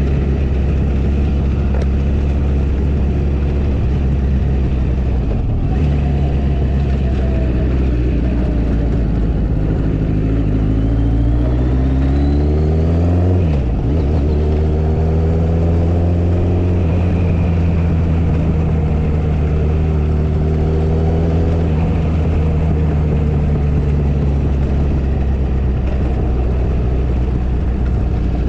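Motorcycle engine running under way. Its pitch climbs for several seconds, drops sharply about halfway through, and then holds fairly steady.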